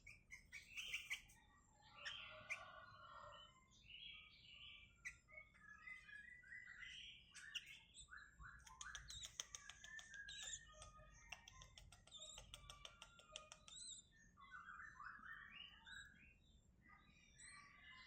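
Sooty-headed bulbul (kutilang) giving many short, quiet chirps and calls, with a dense run of rapid chirps about halfway through.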